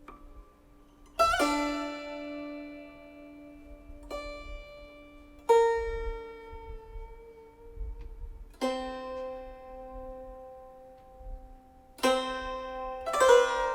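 Steel-string guzheng played slowly: single plucked notes a few seconds apart, each ringing out long, then a quicker run of notes near the end with a note bent down in pitch.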